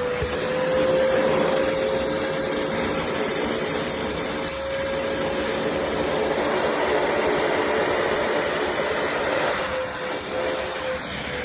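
Cecotec Conga CarpetClean 10000 upholstery and carpet cleaner running: a steady motor whine over rushing suction air, its pitch dipping slightly near the end.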